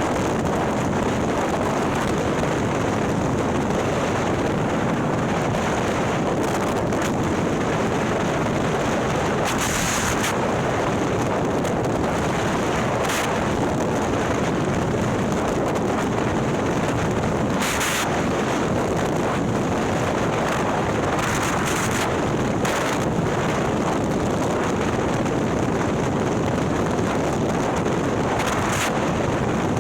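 Big-bore Harley-Davidson V-twin, a 130ci Milwaukee-Eight with a ThunderHeader exhaust, running steadily while the bike is ridden, heard under heavy wind buffeting on the microphone.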